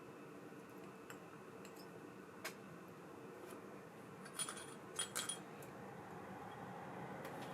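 Small metal parts of a baitcasting reel clicking and clinking as they are handled, with a few sharp metallic clinks that ring briefly about halfway through, over a low steady hum.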